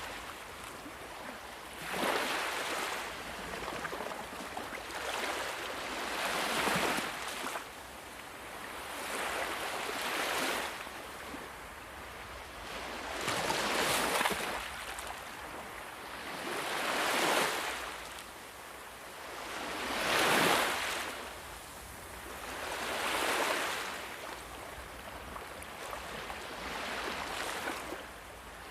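Sea waves washing in, a hissing surge that swells and fades about every three seconds, the loudest one about two-thirds of the way through.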